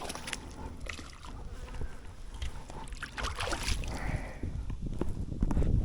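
Creek water splashing and sloshing in irregular bursts, thickest about three seconds in, while hooked fish are fought in the shallows, with a low rumble that grows louder near the end.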